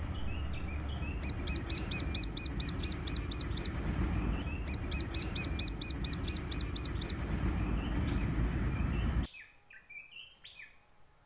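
A songbird calling in two quick runs of high, evenly repeated chirps, about five a second, each run lasting a couple of seconds, over a steady low rumble. The rumble cuts off abruptly about nine seconds in, leaving a few fainter bird chirps.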